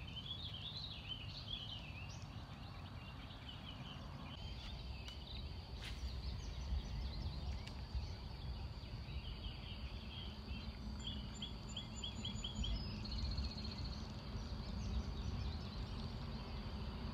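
Songbirds chirping and singing in short bursts of quick high notes, one run of about six rapid notes near the middle, over a steady low rumble. A single sharp click sounds about a third of the way in.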